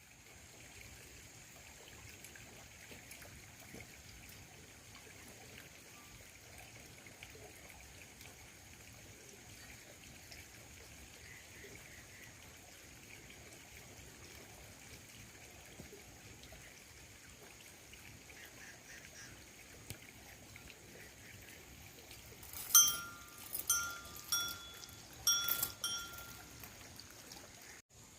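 Faint steady background hiss, then near the end a livestock bell ringing in about five quick clinks over three seconds.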